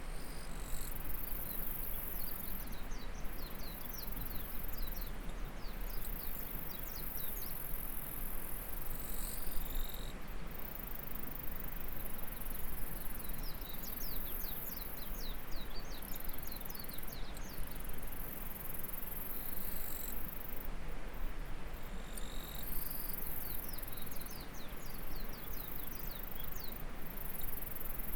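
Early-summer rice-paddy soundscape: a stream's steady babble under a high, continuous insect buzz that drops out and returns every few seconds. A small bird sings three bursts of rapid downward-sliding chirps: about two seconds in, midway, and near the end.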